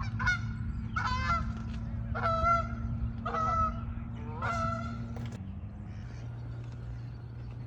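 Geese honking: a series of about six loud honks, roughly one a second, that stops a little past halfway, over a steady low hum.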